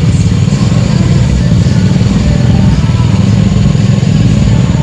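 Motorcycle engine running steadily and loudly close by, its sound sitting deep and low.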